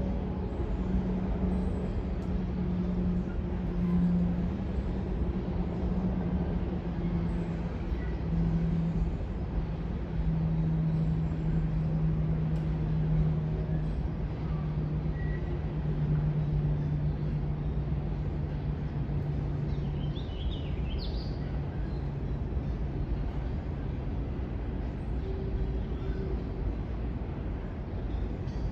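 Diesel locomotive engine running with a steady low drone over a rumble, its pitch slowly stepping down. A brief high chirp comes about two-thirds of the way through.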